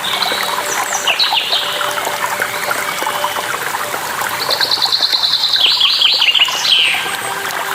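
Songbirds chirping over steadily trickling, splashing water, with a rapid high trill about five seconds in and several short falling notes.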